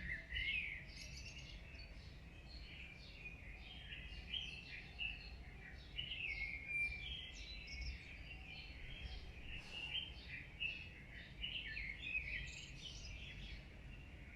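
Many birds chirping at once, a dense run of short overlapping chirps, over a steady low rumble.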